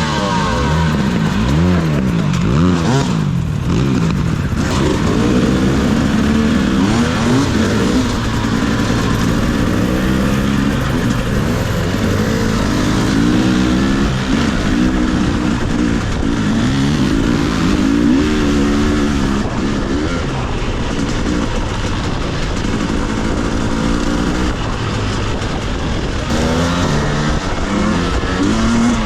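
A two-stroke enduro dirt bike engine, a Husqvarna TE300i, being ridden over rough trail. The revs rise and fall again and again as the throttle is worked.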